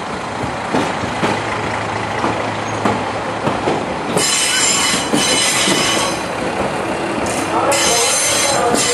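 Aizu Railway AT-351 diesel railcar rolling slowly into the station, its wheels knocking over rail joints, then a high-pitched squeal from about four seconds in and again near the end as it slows to a stop.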